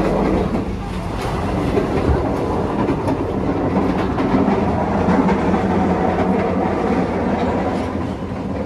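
Train running on the rails: a steady rumble with a few faint wheel clicks, dying down near the end.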